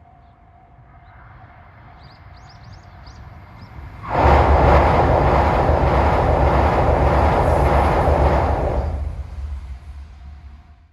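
Yamagata Shinkansen train passing at speed. A rising rumble as it approaches turns about four seconds in into a sudden loud rush of wheels on rail and air, with a deep low rumble. This lasts about four seconds, then fades away.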